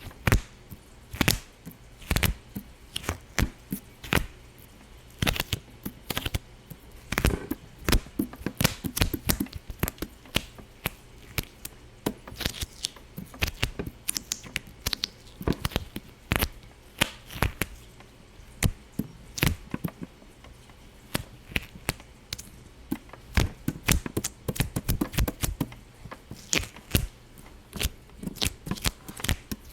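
Irregular sharp pops and clicks, a few a second at uneven spacing and uneven loudness, with no steady rhythm.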